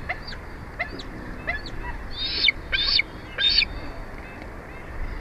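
Bald eagle calling: a run of short, high, rising chirps, then three louder piping calls in the middle, over a steady low background rumble.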